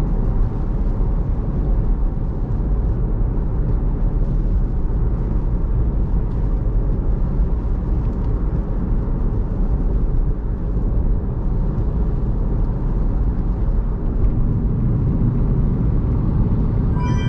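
Steady low road rumble of a car driving at expressway speed on a wet road in heavy rain, heard from inside the car.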